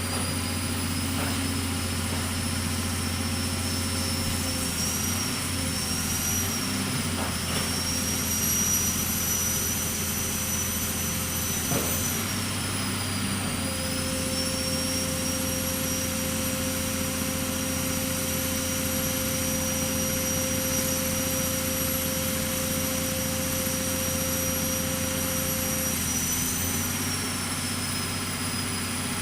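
Pile-driving machine's engine running steadily: a low hum with a high whine over it and a few faint clicks.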